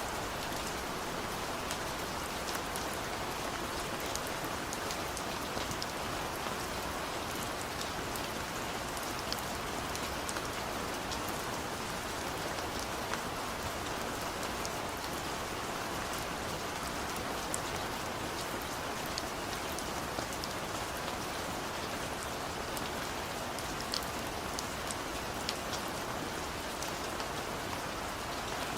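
Heavy rain falling steadily: a continuous rushing hiss dotted with many sharp individual drop ticks.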